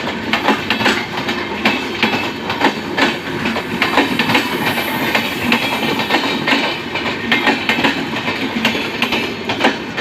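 LHB passenger coaches of a departing express train rolling past, their wheels clacking over rail joints several times a second above a steady rumble.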